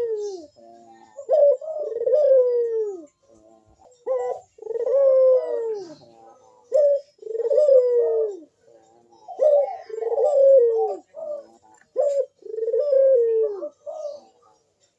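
Barbary dove (burung puter) cooing in its breeding-season song, repeated phrases of a short note then a longer note that falls at the end, about one phrase every two and a half seconds.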